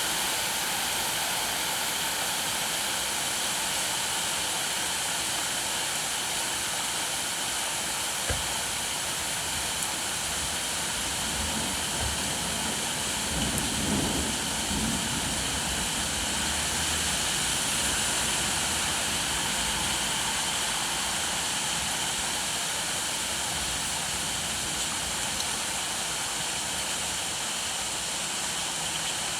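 Steady rain falling, an even hiss. A single knock comes about eight seconds in, and a low rumble rises and fades around the middle.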